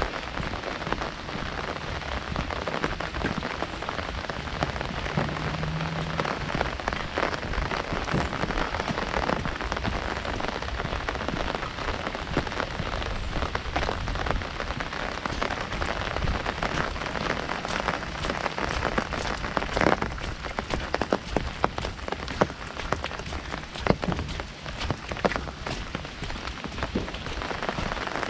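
Heavy rain drumming on an umbrella canopy overhead, a steady dense patter of drops with occasional louder, sharper drips hitting the fabric.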